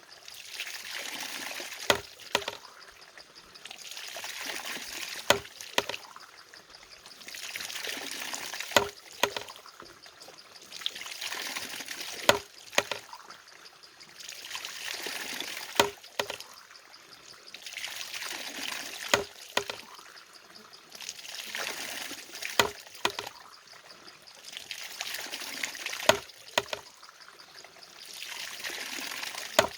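Water-powered mechanism running in a steady cycle: a sharp wooden-sounding knock about every three and a half seconds, with a rush of pouring, trickling water between the knocks.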